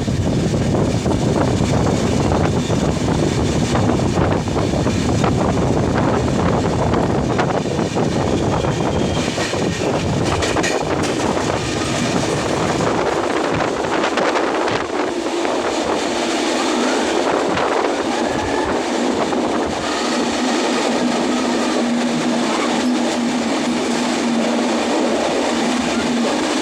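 Train running, a steady rumble with rapid clicking of the wheels over the rails. About halfway, the deep rumble drops away and a steady hum carries on.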